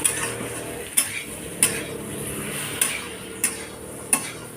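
A cooking utensil scraping and knocking against a pan while potatoes and raw banana are stirred in hot oil with chilli powder, the oil sizzling steadily underneath. There are about six sharp knocks at uneven intervals.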